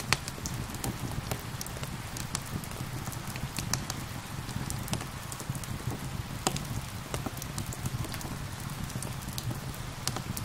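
Steady rain with a wood fire crackling: irregular sharp pops over a constant low rumble, a few louder cracks at the start and at about four and six and a half seconds in.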